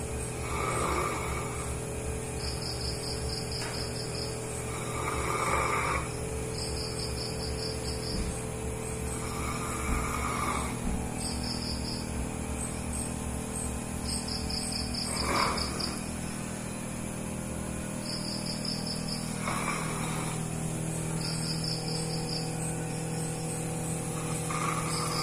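Dog snoring in deep sleep, six snores about every four to five seconds. Between the snores come short bursts of high-pitched, pulsed chirping.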